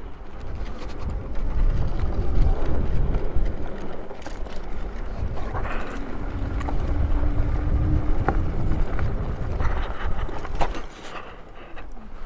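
Super73 RX electric bike being ridden on a dirt trail: wind buffeting the microphone over tyre and trail noise, with a steady low whine for a few seconds around the middle and a few sharp knocks.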